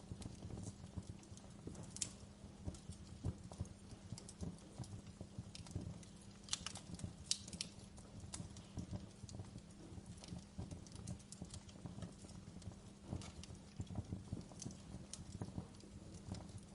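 Wood fire crackling and popping in a fireplace: irregular sharp snaps, a few louder pops, over a steady low rumble of the flames.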